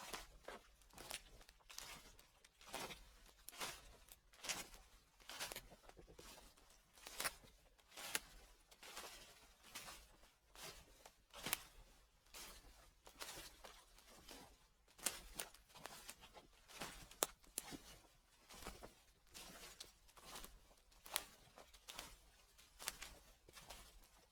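Footsteps crunching through fallen leaves at a steady walking pace, a step a little under every second.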